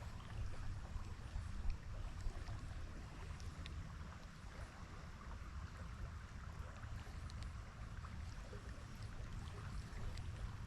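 River water running steadily, an even rush with a low rumble beneath it and a few faint clicks.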